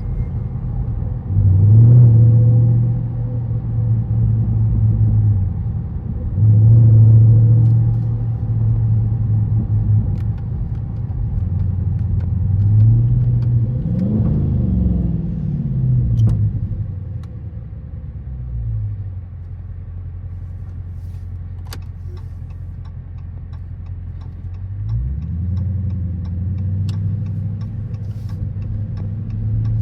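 Dodge Charger SRT 392's 6.4-litre HEMI V8 on the move: two strong throttle bursts in the first few seconds, a rev that rises and falls about halfway, then a lower steady drone before the engine pulls again near the end.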